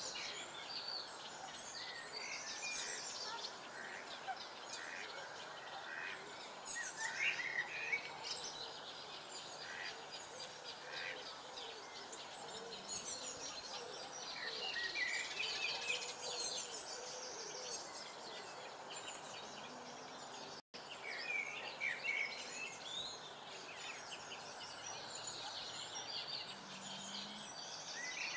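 Birds singing and chirping around a pond, many short chirps and song phrases from several birds over a steady background noise. The sound drops out for an instant about two-thirds of the way through.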